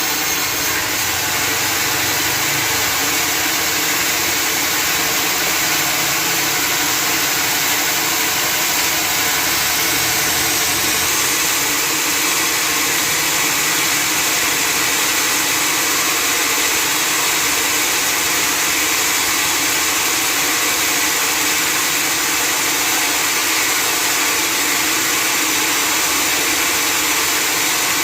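Sawmill running: a loud, steady machine drone with an engine hum and a dense hiss that doesn't let up.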